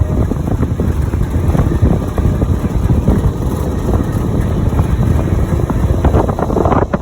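M715 military truck driving, its engine and road noise under heavy wind buffeting on the microphone from the open, windshield-down cab.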